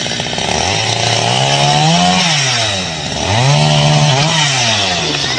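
A small engine revved up and back down twice, its pitch climbing to a peak about two seconds in and again about four seconds in.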